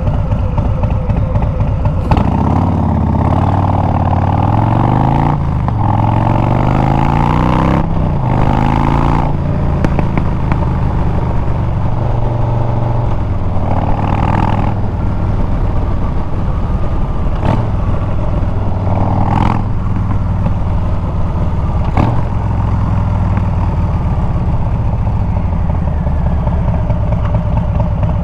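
Harley-Davidson Milwaukee-Eight 114 V-twin running through Bassani straight pipes on the move. It pulls up through the gears in the first eight seconds or so, the pitch climbing and dropping back at each shift, then settles into a steady cruise with small changes of throttle.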